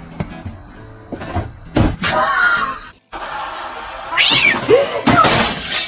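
A cat meowing several times over background music, with a brief cut-out in the middle and a loud burst of noise near the end.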